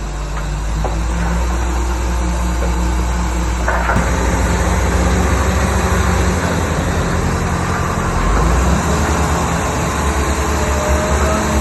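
Heavy diesel earthmoving machinery running steadily. About four seconds in, the sound turns rougher and louder.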